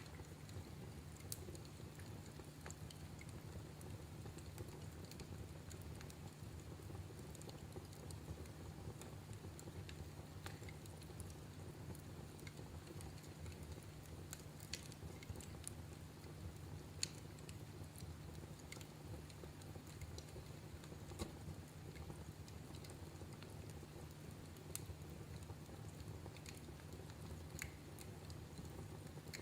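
Wood fire in a fireplace crackling: irregular sharp pops and snaps over a steady low rumble, with one louder snap about midway.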